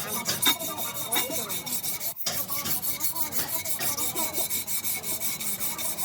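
Fast, evenly repeated rasping strokes on a metal wheel rim being worked during its repair, with a brief break about two seconds in.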